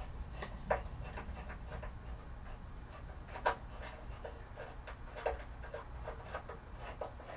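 Light, irregular clicks and taps of plastic and metal parts being handled during reassembly of a pit bike, several a second, with a few sharper knocks, over a low steady hum.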